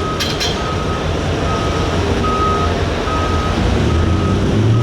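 A vehicle backup alarm beeps in a steady single tone about once every second, over the low rumble of a heavy engine. The engine's pitch rises near the end.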